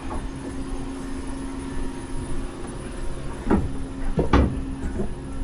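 A motor running steadily with a low hum, broken by a few sharp knocks, the loudest about three and a half and four and a half seconds in.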